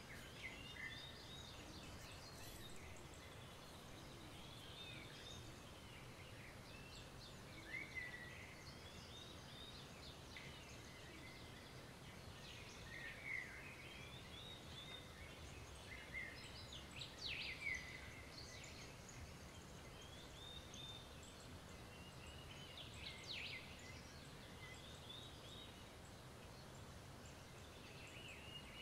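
Faint bird calls: short high chirps and trills at irregular intervals, a little louder around the middle and near the end, over a quiet steady background hiss.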